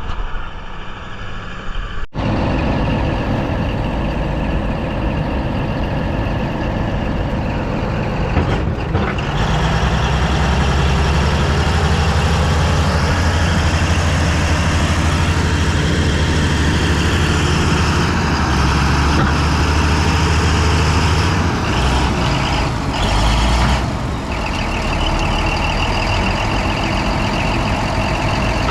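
Bulldozer's diesel engine running loudly and steadily, its low drone growing heavier about nine seconds in as the machine works.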